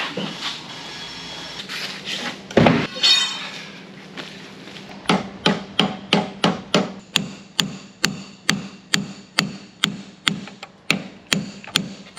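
Hammer pounding on metal combine parts: a loud clank about two and a half seconds in, then from about five seconds in a steady run of blows, about two and a half a second, each with a metallic ring.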